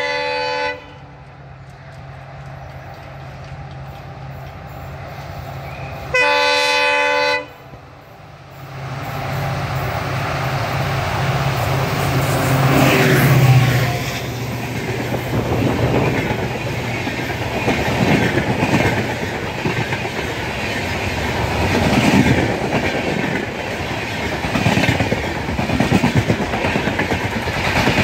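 Diesel-hauled passenger train approaching with two horn blasts, one right at the start and one about six seconds in. The locomotive's engine grows louder and passes about thirteen seconds in, then the coaches roll by with a rumble and a regular clickety-clack of wheels over the rail joints.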